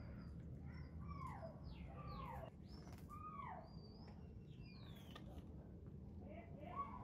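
Birds calling with short falling chirps, about one a second over the first few seconds, mixed with a few thinner, higher chirps, over a faint steady low hum.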